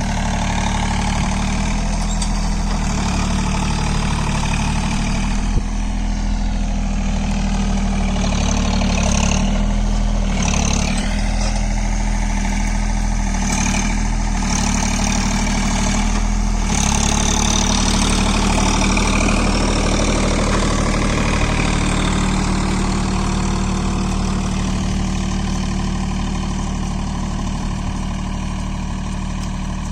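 John Deere 3028EN mini tractor's three-cylinder diesel engine running steadily while pulling a ridger through the field, growing slightly quieter near the end.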